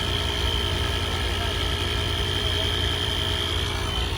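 Car engine idling: a low, steady rumble, with a steady high-pitched whine over it that fades near the end.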